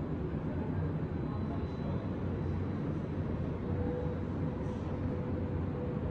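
Steady low rumble of city traffic, with a faint steady hum joining about four seconds in.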